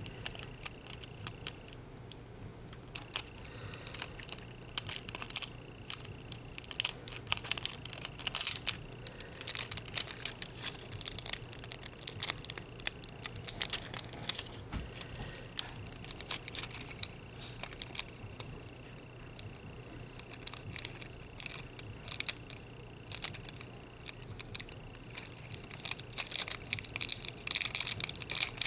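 Thin nail transfer foil crinkling and scratching as it is rubbed hard onto a thumbnail, in quick irregular scratches and crinkles that keep going with short pauses.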